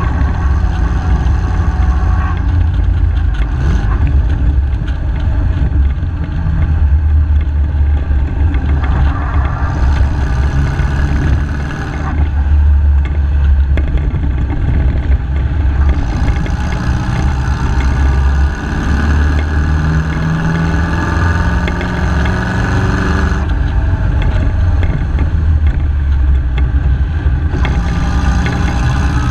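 MG KY Special vintage racing car's engine running at speed, heard from on board the open car. The engine note rises and falls several times as the driver changes gear and lifts for corners.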